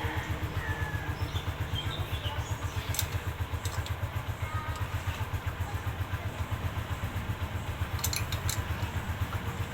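Kawasaki Barako motorcycle's single-cylinder two-stroke engine idling steadily with an even low pulsing, running after a top and side overhaul. A few light clicks about three and eight seconds in.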